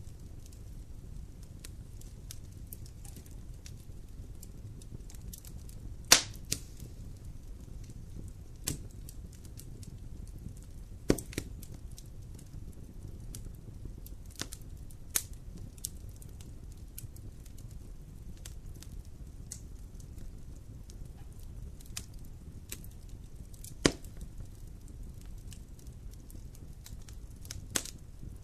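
Wood campfire burning: a low steady rumble of flame with irregular crackling and a few sharp, loud pops of the burning wood, the loudest about six seconds in and another a little before the end.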